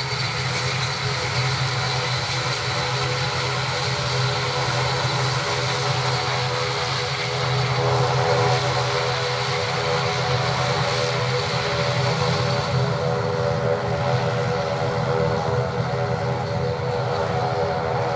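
ATR72-600 turboprop's Pratt & Whitney PW127 engines running at taxi power: a steady propeller drone with a thin high turbine whine over it.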